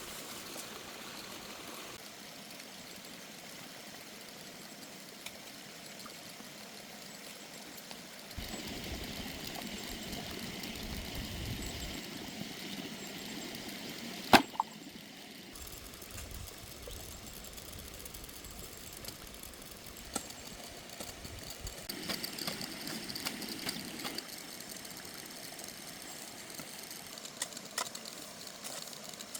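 Steady rush of flowing stream water. It grows louder for a few seconds twice, and a single sharp knock about fourteen seconds in is the loudest sound.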